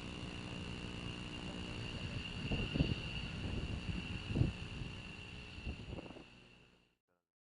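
A steady high insect trill over a low rumble, with a few low thumps about three, four and a half, and six seconds in; the sound cuts off abruptly near the end.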